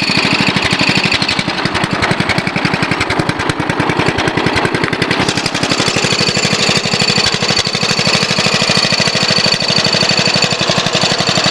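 Lawn mower engine running steadily, its rapid firing pulses even throughout.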